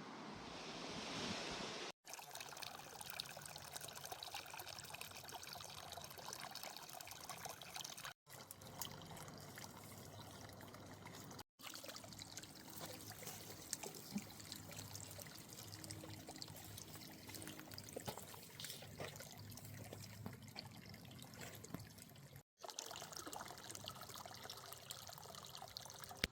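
Water trickling and pouring, a soft steady splashing sound broken by several abrupt cuts to silence.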